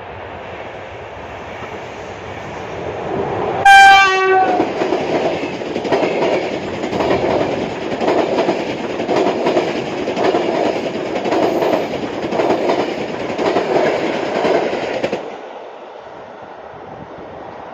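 Passing InterCity passenger train hauled by a PKP EP09 electric locomotive: a short horn blast about four seconds in, then the coaches rushing by with wheels clacking over rail joints in a pulse about once a second. The noise drops suddenly near the end, leaving a quieter rumble.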